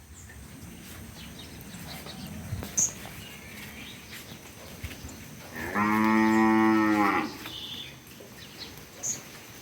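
A cow mooing once: one long, steady call of about a second and a half, starting about six seconds in.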